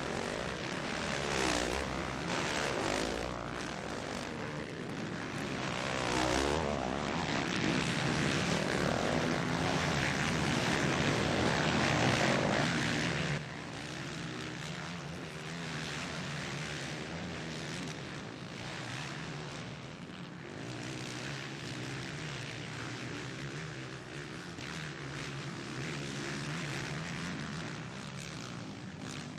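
Four-stroke motocross bikes racing, several engines revving up and down at once. The sound drops abruptly about halfway through.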